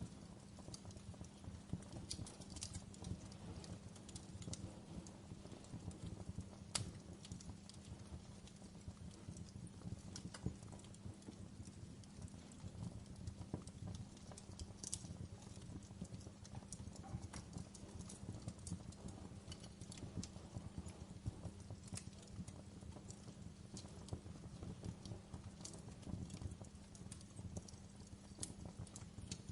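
Wood fire burning in a fireplace: a steady low rumble of flames with frequent irregular crackles and an occasional sharper pop.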